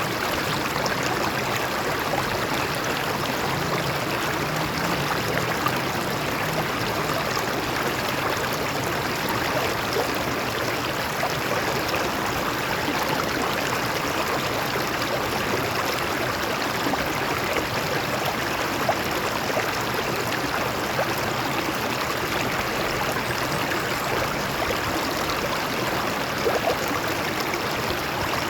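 Shallow stream flowing and splashing over rocks: a steady, even rushing with small gurgles.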